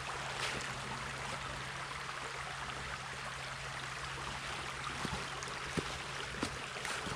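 Steady rushing of a stream running beside the trail, with a few scattered clicks of footsteps on rock and leaves.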